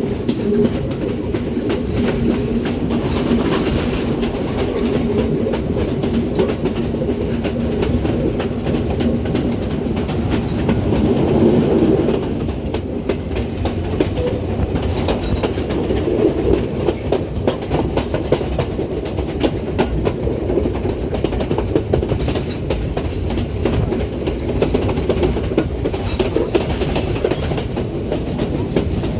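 Passenger train running along the track: a steady rumble with many short clicks and rattles, and a low hum through the first half.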